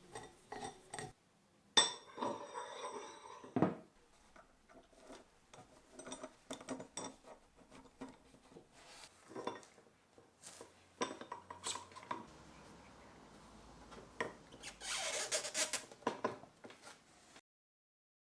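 Metal parts of a cast-iron bench vise clinking, knocking and scraping as they are handled, with one sharp ringing clink about two seconds in. A brief hissing rub comes near the end.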